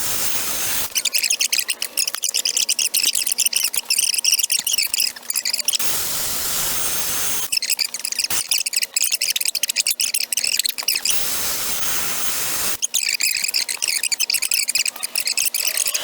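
Rotary grinder with a burr cutting into an aluminium intake manifold during porting, in three chattering high-pitched bursts with the tool running freely between them.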